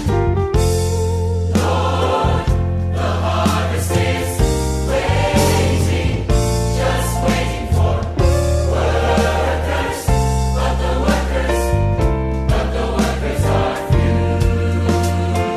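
A choir singing a Christian worship song over instrumental accompaniment, with held bass notes and a regular beat.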